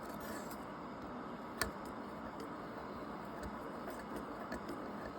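Failed turbocharger turned by hand, its shaft giving faint rough ticking, with one sharper click about a second and a half in. The shaft moves but not freely: the sign of a worn-out turbo, which the owner judges no good.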